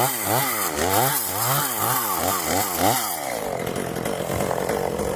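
A two-stroke chainsaw cutting into oak, its engine pitch swinging up and down about three times a second. About three seconds in, the pitch falls away and the saw settles to a low idle.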